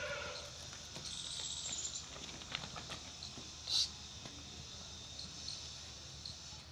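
Steady high-pitched insect chirring with scattered faint chirps, and a short sharp sound about four seconds in.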